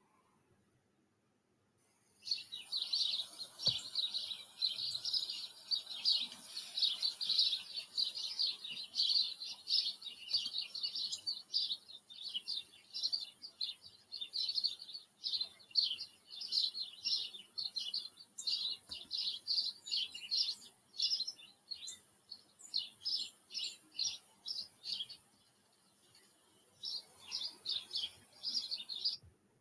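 A bird calling in a long run of rapid, high-pitched chirps, several a second, with a short break near the end, over a steady hiss from the recording.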